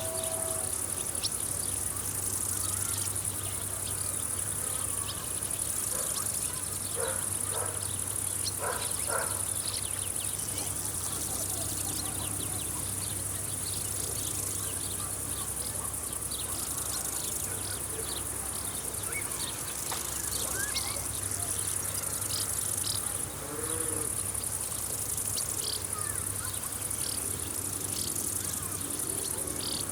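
Insects chirring in a summer field, a continuous high-pitched chirr that swells and fades in patches. A few short bird calls come through, clustered about a third of the way in and again later.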